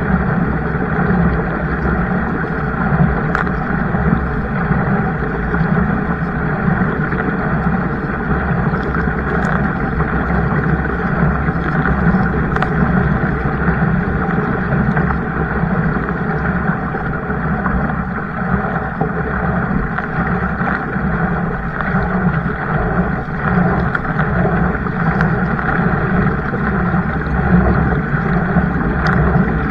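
Steady rushing wind and water noise on the microphone while out in a kayak, with a few faint clicks now and then.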